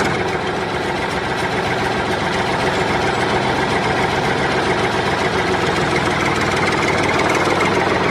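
A small engine running steadily with a fast, even rattle. It starts and stops abruptly.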